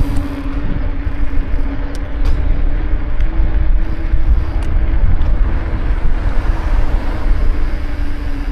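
Wind rumbling on the microphone of a moving bicycle, with a steady hum, and a couple of light ticks about two seconds in.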